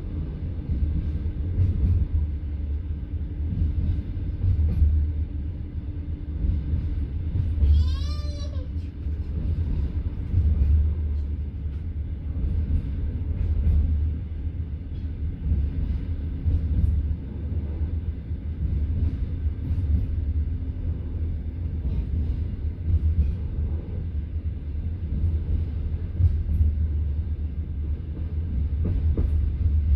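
Passenger train's wheels running over the rails, heard from inside the carriage: a continuous low rumble with uneven swells. A short high squeal rises and falls once, about eight seconds in.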